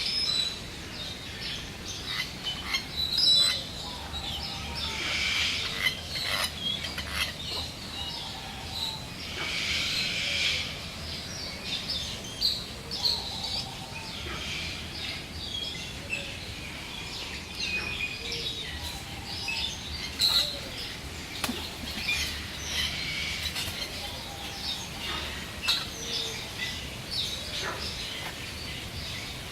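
Many birds chirping and calling at once, a steady overlapping chorus of short high calls with a few lower, sliding calls mixed in.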